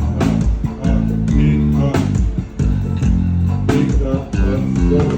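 A live band playing at a soundcheck: bass guitar holding low notes and guitar over drum hits.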